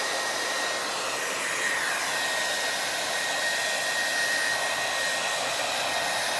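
Electric hair dryer running steadily, a constant rush of air with a thin high whine, blowing onto a horse's coat to dry it.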